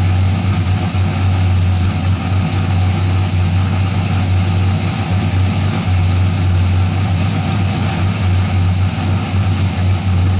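Car engine idling steadily through a newly fitted aftermarket exhaust, with a strong, even low drone.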